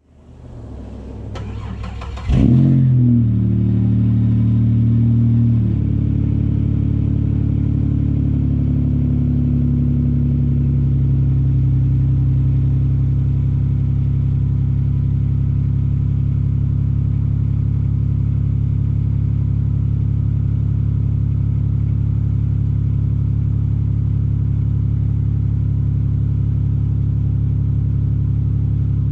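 2003 Chevrolet Impala cold start through a freshly repaired exhaust. The starter cranks, the engine catches about two seconds in and runs at a raised fast idle, then settles to a steady idle about six seconds in.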